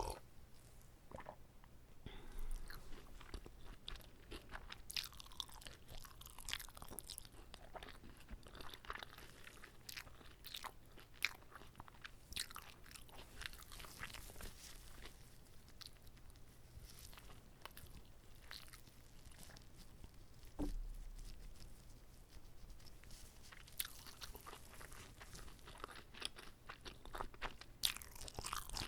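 Close-miked chewing and biting of a whole kimbap roll, with irregular crunchy clicks as the seaweed-wrapped rice and fillings are bitten and chewed. A short low thump comes about two-thirds of the way through.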